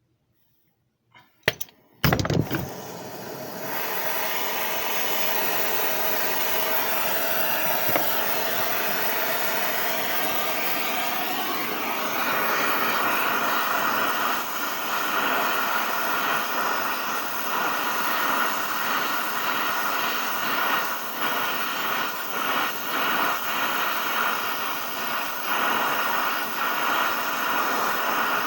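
Brazing torch being lit: a few clicks, a sharp pop about two seconds in, then the steady hiss of the gas flame, which turns harsher about twelve seconds in.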